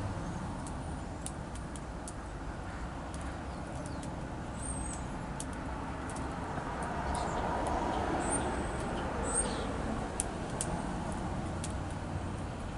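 Steady low rumble of distant traffic, with a few short, high chirps from small songbirds at a feeder and scattered light clicks.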